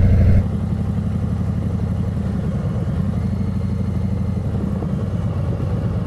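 Harley-Davidson Heritage V-twin motorcycle engine running steadily at low speed. Its level drops abruptly about half a second in, then holds steady.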